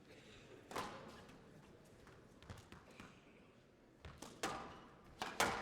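Squash ball being struck by rackets and slapping off the court walls during a rally: one sharp crack about a second in, then a quick run of hits in the last second and a half.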